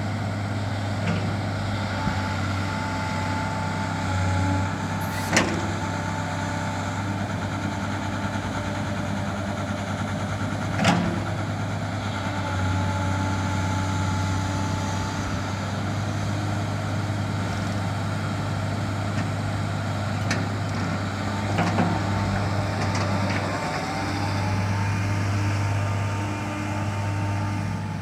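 Caterpillar 315 L hydraulic excavator's diesel engine running steadily, with two sharp knocks, one about five seconds in and another about eleven seconds in.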